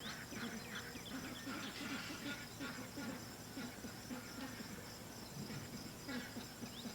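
Faint outdoor insect chorus: a steady high trill, with many short scattered chirps and calls over it.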